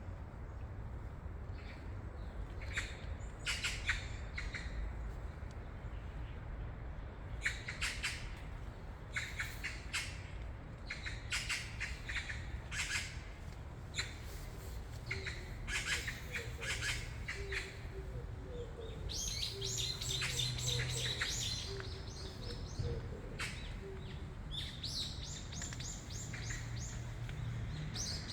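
Songbirds calling and chirping in repeated short bursts of high notes, with a denser, longer trill a little past the middle. A steady low background hum runs underneath.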